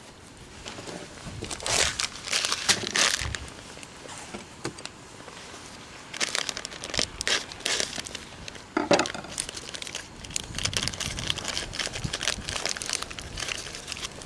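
Plastic packaging crinkling and rustling in several bursts as a bag of rice is handled and opened.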